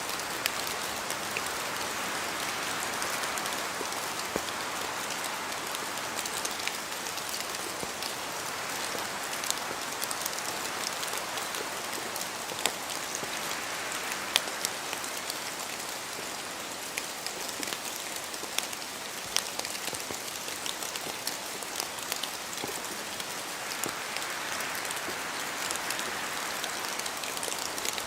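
Steady rain falling in a forest, with many sharp, scattered ticks of drops falling from the trees. The hiss swells with gusts of wind a few seconds in and again near the end.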